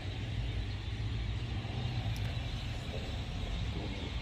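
Steady low mechanical rumble with an even hiss above it.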